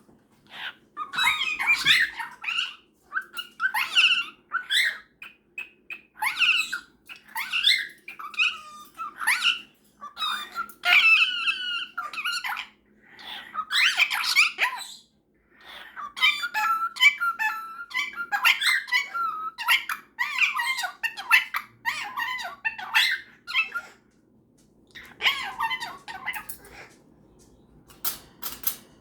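A cockatiel and a superb parrot calling back and forth in short, high chirps and chatter, in rapid bursts with brief pauses, quieter near the end.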